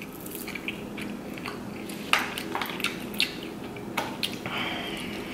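Chewing of fried soft-shell crab, with a few short crisp crunches scattered through it.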